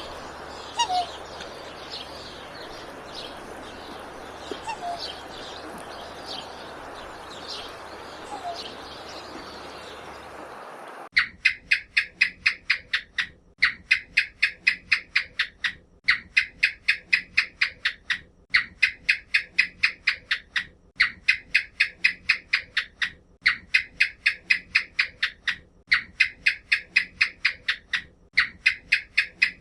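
Scattered bird chirps over a steady background hiss. About eleven seconds in, the sound cuts to a loud, rapid pulsed trill, repeated in runs of about two seconds with short pauses between them.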